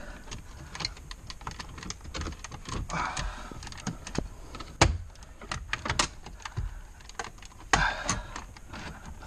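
Hands working loose plastic car-interior trim and parts: scattered clicks, taps and knocks with short bursts of plastic rubbing and scraping, the sharpest knocks about five and six seconds in.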